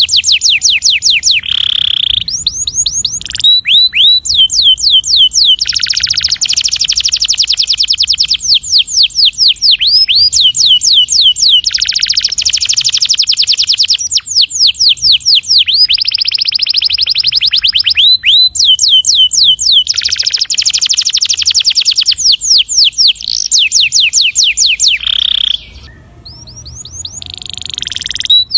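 Domestic canary singing long rolling trills: fast runs of rapidly repeated sweeping notes in long phrases, broken by short pauses, with a longer break about 25 seconds in.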